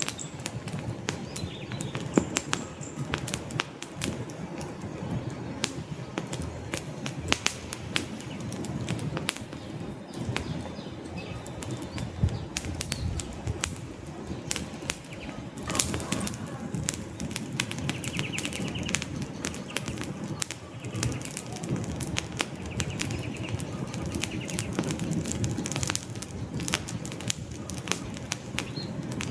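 Wood logs burning in a fireplace: a steady low rumble of flame with frequent irregular crackles and sharp pops.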